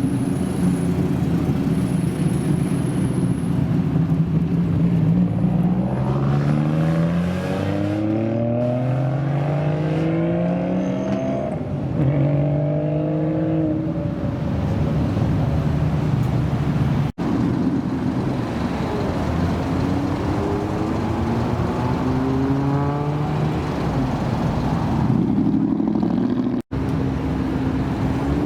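Car engines running, with the engine pitch climbing steeply several times as cars rev and accelerate away. The sound cuts out sharply twice for an instant.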